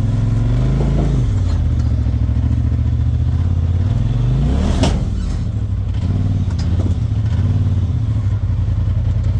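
Truck engine running steadily, its pitch shifting about a second in and again near five seconds, with a sharp clatter just before five seconds.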